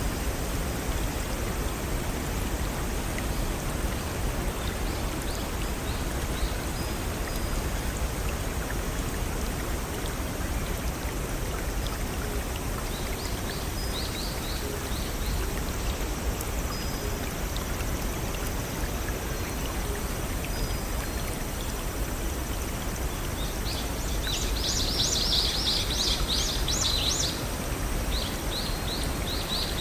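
Steady rush of a small stream and waterfalls flowing over rocks. Songbirds chirp briefly about halfway through, and a burst of rapid high chirps comes near the end.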